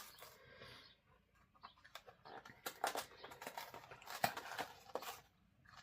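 Plastic snack packaging being handled and opened, crinkling and crackling irregularly, with the sharpest crackle about four seconds in.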